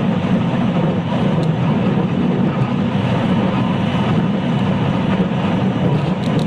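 Running noise inside a JR West 223 series electric multiple unit motor car (KuMoHa 223-3016): a steady, loud rumble of wheels on rails and the running gear, with a faint steady tone over it.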